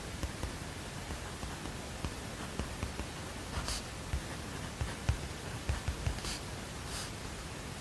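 Steady, even hiss of white noise, with scattered soft low taps and three brief scratchy rustles in the second half.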